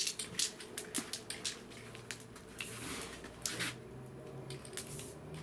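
Bonfire crackling and popping, with a few short hisses from an aerosol can of 3-in-1 oil sprayed onto the flames.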